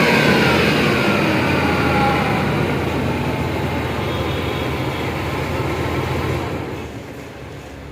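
Range Rover V engine running, its revs falling back after a blip of the throttle and then holding steady; about six and a half seconds in, the engine sound drops away and gets quieter.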